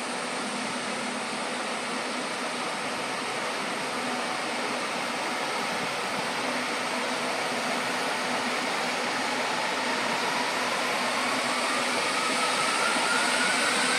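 Emergency helicopter's turbine engine running, a steady rushing noise that grows louder, with a thin whine that starts rising in pitch about halfway through as the engine spools up.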